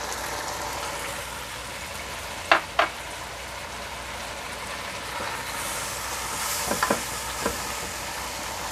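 Minced pork sizzling in a wok while it is stirred with a wooden spatula, with a few sharp knocks of the spatula against the pan, two about two and a half seconds in and a few more near seven seconds.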